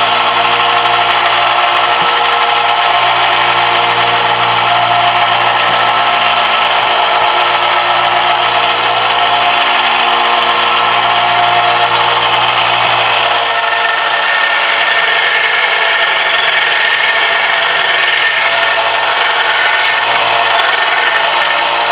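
Electric power sander running steadily while sanding a brass piece, a continuous grinding whir. About two-thirds of the way through the low hum fades and a brighter, higher grinding takes over.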